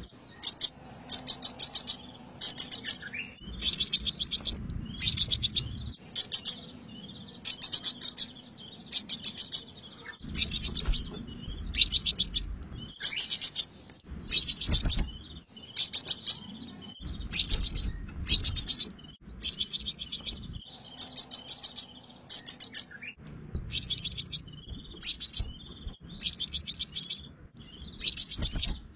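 Sunbird singing in repeated bursts of rapid, high trilled chips, each burst about a second long with short gaps between.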